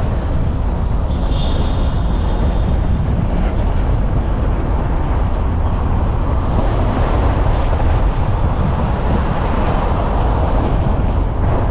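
Steady rumble of a moving motor vehicle, engine and road noise throughout with no let-up.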